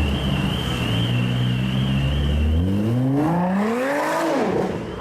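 Car engine running steadily, then revved hard about two and a half seconds in: the pitch climbs for under two seconds and drops back quickly near the end. A faint high wavering tone sounds over the first part.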